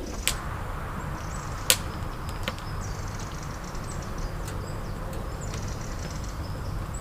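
A few sharp knocks or cracks over a steady hiss, the loudest about two seconds in.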